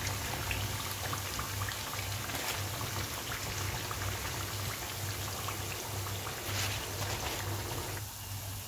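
Vegetable fritters (bakwan) deep-frying in a pan of hot oil, a steady sizzle full of tiny crackles. It gets somewhat quieter near the end.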